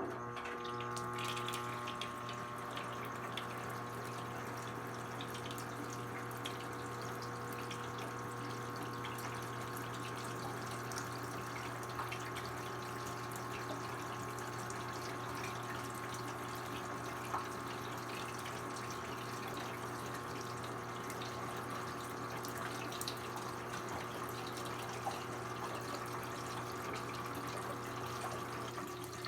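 Brastemp BWK17 17 kg washing machine starting abruptly to run water through the tub: a steady rush of water over a steady electric hum, partway through its quick cycle.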